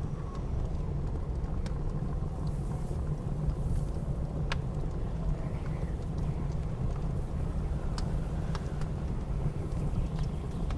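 A steady low rumble of blizzard wind, with a wood fire crackling over it in a few scattered sharp pops.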